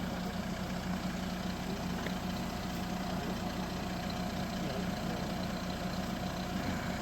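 An engine idling steadily: an even, unchanging hum.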